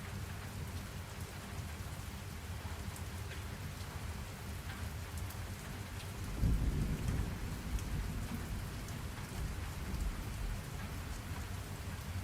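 Steady rain falling, with scattered drop ticks, and a low rumble of thunder that swells suddenly about halfway through and fades over several seconds.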